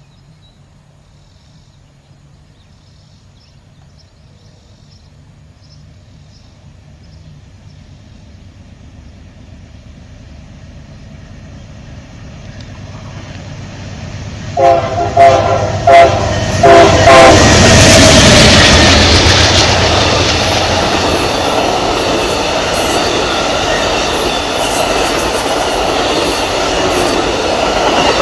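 Amtrak Auto Train approaching and passing: a rumble that builds steadily, then three horn blasts, the middle one short, followed by the loud steady run of the locomotive and long train of cars going by with wheels clacking over the rail joints.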